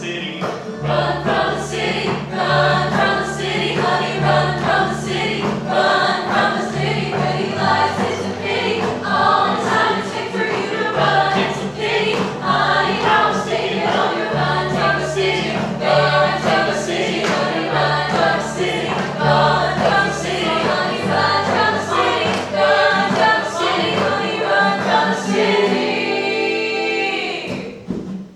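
A vocal ensemble sings in harmony over sustained low accompanying chords that change every second or two, closing on a held note near the end.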